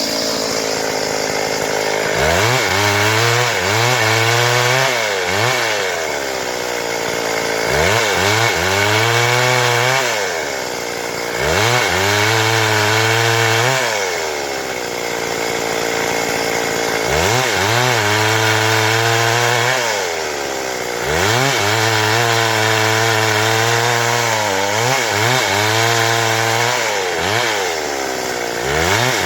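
Stihl MS 382 two-stroke chainsaw revving up to full throttle and held there while cutting wood, then dropping back toward idle between passes, about five times over.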